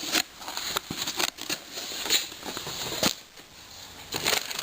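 Packaging and parts being handled and unwrapped: irregular crinkles, rustles and light clicks and knocks.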